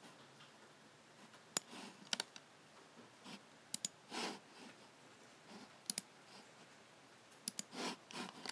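Logitech G7 computer mouse buttons being clicked, sharp clicks mostly in quick pairs every second or two, with a few soft, longer swishes between them.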